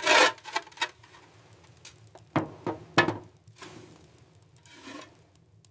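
Objects being handled: a string of sharp knocks and clicks with brief rustling, the loudest about three seconds in.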